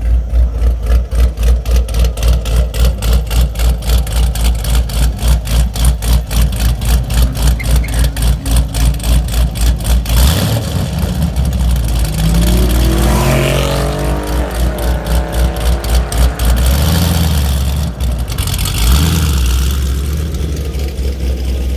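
Car engine sound: a loud, low pulsing about four times a second for the first ten seconds, then an engine revving, its pitch rising and falling, around the middle before settling into a steady run.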